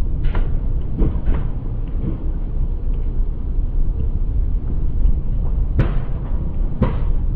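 Wind buffeting the microphone from the window of a moving train, with a few sharp knocks from the wheels on the track, two near the start and two more in the last couple of seconds.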